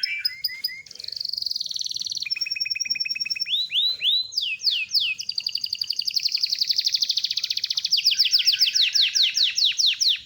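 Loper canary singing a long rolling song: a chain of fast trills that switch to a new pattern every second or two, ending in rapid, repeated downward-sweeping notes that stop suddenly near the end.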